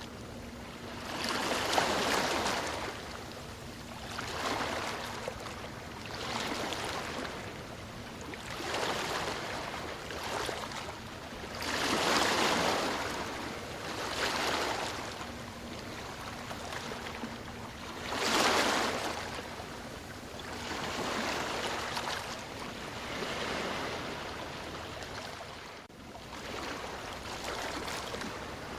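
Ocean waves breaking and washing in, one surge of surf every two to three seconds that swells up and fades back, some surges louder than others.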